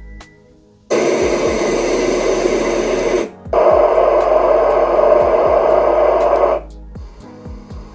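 Portable sound machine playing a steady white-noise-type sound through its small speaker in two spells: from about a second in to just past 3 s, then louder from about 3.5 s until it cuts off suddenly near the end, as the sound or volume is stepped through.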